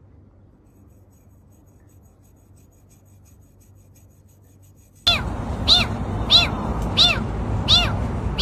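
Faint low hum, then about five seconds in a cat starts meowing over and over: short calls that rise and fall, two or three a second.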